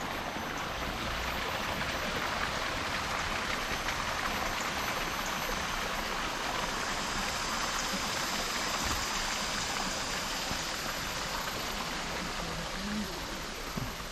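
Running water, a stream or small waterfall, giving a steady, even rush.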